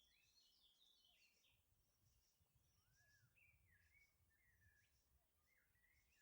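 Very faint birdsong: a run of quick chirps and short warbled phrases that slide up and down in pitch, over a faint low background hum, near silence otherwise.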